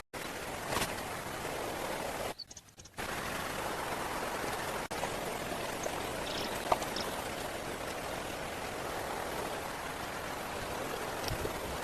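Steady rush of water, an even hiss, broken by a short dropout about two and a half seconds in.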